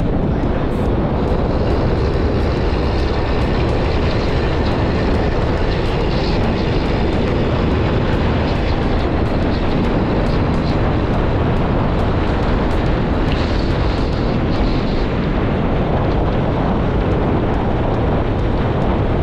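Steady rush of wind and road noise from a moving vehicle, heavy in the low end, with no change in pace.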